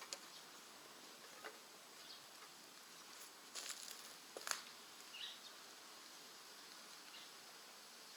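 Wood fire in a rocket stove crackling faintly: a few scattered sharp pops, a small cluster of them about three and a half to four and a half seconds in, over a quiet steady hiss.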